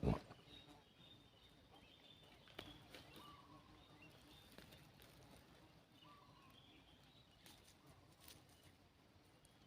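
Faint bird calls: short falling notes repeating every few seconds, with thin higher chirps among them. A single thump right at the start.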